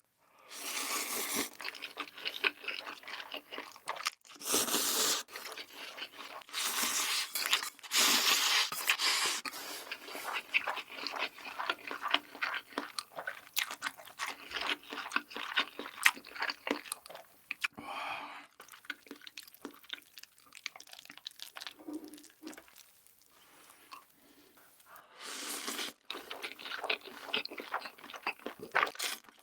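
Close-miked ASMR eating sounds of black bean noodles (jjajangmyeon) being eaten: chewing with crunchy bites and many small wet clicks. A quieter stretch comes about two-thirds of the way through.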